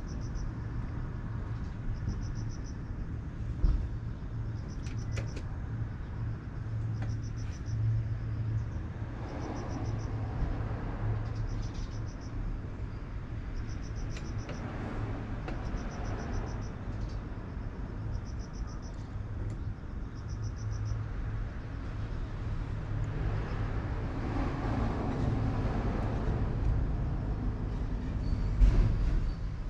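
Steady low outdoor rumble like distant road traffic, with a short high-pitched pulsed chirp repeated every second or two.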